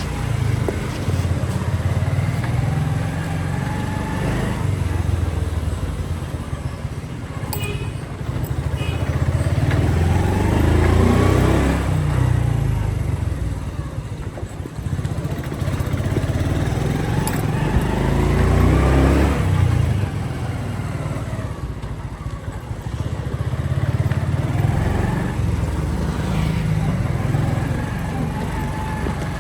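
Motorcycle engine running while riding. It revs up with a long rise in pitch about ten seconds in and again just before twenty seconds, easing off between.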